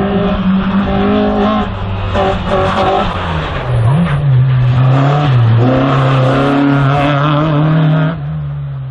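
Slalom race car's engine running at high revs, its pitch falling and climbing as the throttle is lifted and reapplied, then holding a steady note before it falls away sharply near the end.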